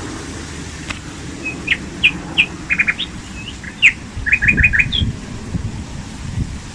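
A small bird chirping: a string of short, high notes, including two quick runs of four, that stops about five seconds in. A steady low rumble runs underneath.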